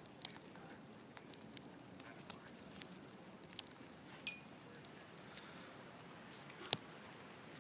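Faint scattered crackles and clicks of snow crunching under feet and paws, with one sharper click near the end.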